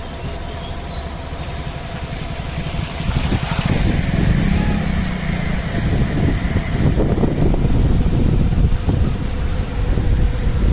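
Road traffic: motorcycles and cars running and passing, a steady low rumble that grows louder about three seconds in.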